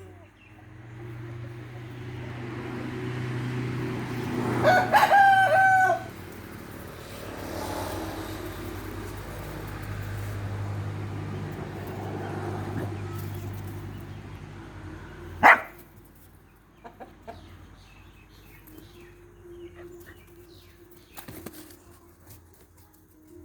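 Rooster crowing once, loud, about five seconds in, over a steady low hum that stops about fifteen seconds in; a single sharp knock comes just as the hum ends, followed by faint scattered ticks.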